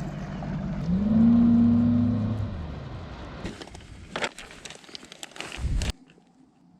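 A boat's engine revs up about a second in, runs steadily, then fades away over a couple of seconds. A few clicks and knocks follow, then the sound cuts off abruptly near the end.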